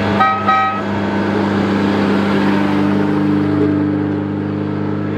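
Rally car engine running steadily at low revs, with two short high beeps about a quarter and half a second in.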